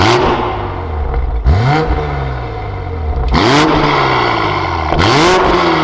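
Toyota Supra's aftermarket FI valved exhaust with the valves open, the engine revved in four quick blips about every one and a half to two seconds. Each rev rises sharply in pitch and falls slowly back, with a sharp blast at its start.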